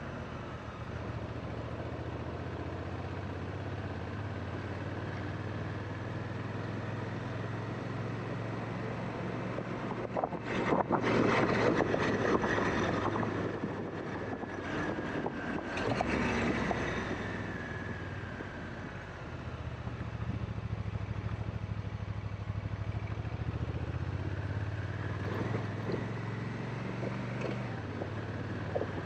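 Honda Africa Twin parallel-twin motorcycle engine running steadily under way. About ten seconds in, a louder, rough rush of noise builds and lasts several seconds before the engine is left alone again.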